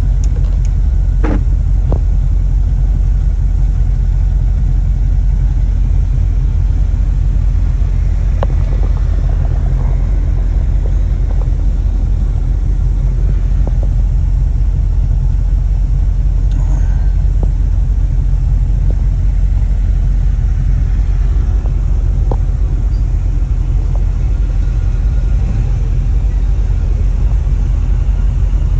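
A car engine idling steadily, a low even rumble that holds without change, with a few faint ticks over it.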